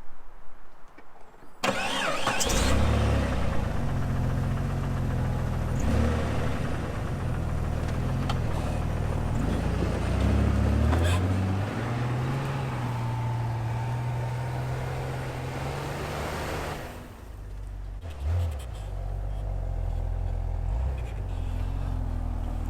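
Jeep engine running under load as it climbs a snowy hill, its pitch rising and falling as it revs. It comes in suddenly about two seconds in and drops briefly near the end.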